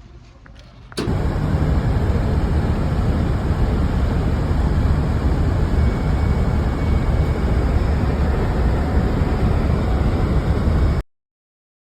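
Steady road and engine noise of a moving vehicle, starting abruptly about a second in and cutting off abruptly near the end.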